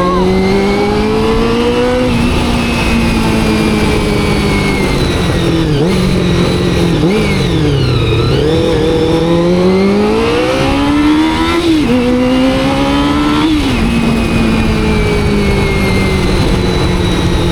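Honda CBR400RR's carbureted inline-four engine under way: revs climb, fall away midway as the bike slows, then pull up again through two quick upshifts and settle to a steady cruise that eases off slowly.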